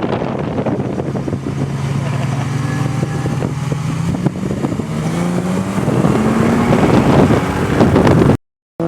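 Twin-turbo Ford BA XR8's V8 engine running under load with a rough, crackly note, holding steady and then climbing in pitch through the second half as the car accelerates. The sound cuts off abruptly near the end.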